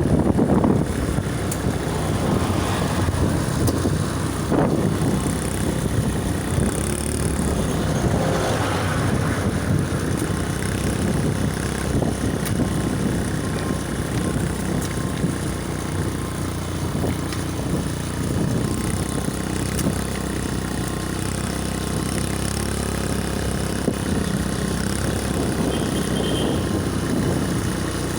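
Steady motor vehicle engine and road noise, running without a break.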